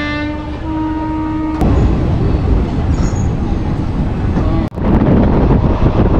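A steady held tone that steps up in pitch once and stops about a second and a half in. It gives way to the loud rumble and rush of the Shaktipunj Express passenger train running, with a brief break just before five seconds.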